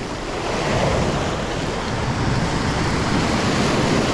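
Sea surf washing against the shore, a steady rush of noise that swells about half a second in and holds, with wind buffeting the microphone.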